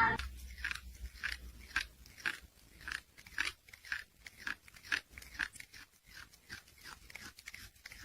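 An animal chewing something crunchy: quiet, irregular crunches, about two or three a second.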